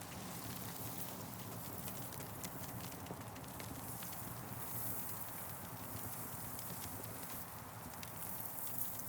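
Campfire crackling: scattered sharp pops and snaps over a steady hiss of burning wood, with a low rumble underneath.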